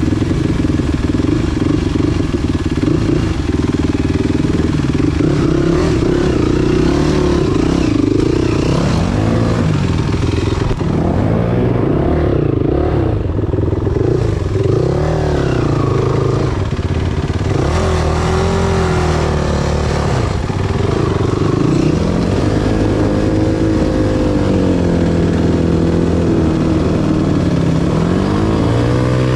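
Enduro motorcycle engine revving up and down again and again under a rider's throttle, its pitch climbing and dropping every second or two.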